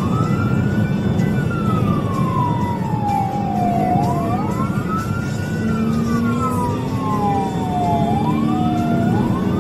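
Police car siren on a wail cycle: each wail climbs quickly in about a second and falls slowly over about three, repeating roughly every four seconds, with two overlapping wails slightly out of step. Underneath is a steady rumble of road and engine noise from the moving car.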